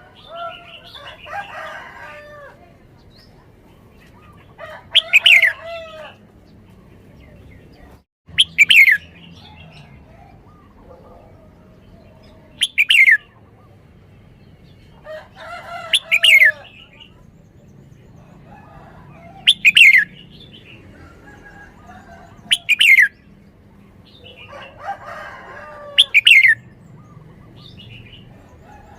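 Red-whiskered bulbul singing: loud, sharp down-slurred whistled phrases every three to four seconds, with softer warbling chatter between them.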